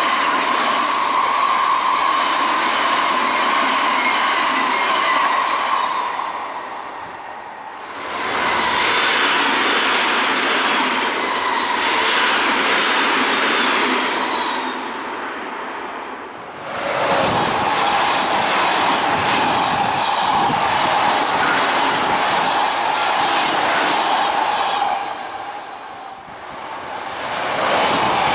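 Odakyu electric commuter trains (4000, 2000 and 1000 series) passing close by one after another, wheels running loud on the rails with a steady high tone. The sound dies down briefly three times as one train's pass ends and the next begins.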